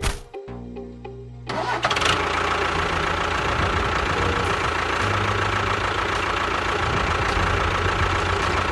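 A small motor starts about a second and a half in and runs steadily, with a steady whine over a dense rattle.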